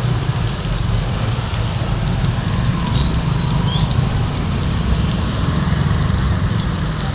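Heavy rain pouring steadily, with a deep rumble underneath.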